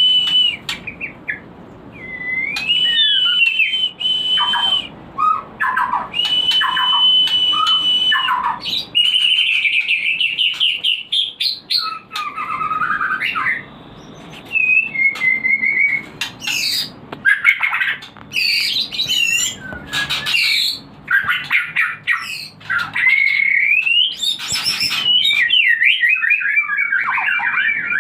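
White-rumped shama singing: a long run of varied loud whistled phrases, sliding notes, trills and sharp chattering notes, with short pauses between phrases.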